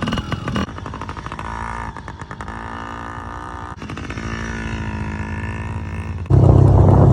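Yamaha PW50 mini dirt bike's two-stroke engine running and revving, rising and falling in pitch. About six seconds in, a much louder, deeper engine sound cuts in.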